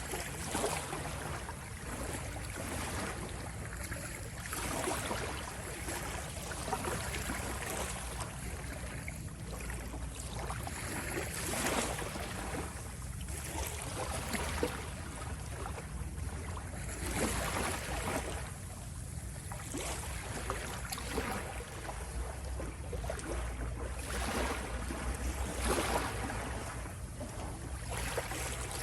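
Water waves washing and splashing in irregular surges every second or two, over a steady low rumble.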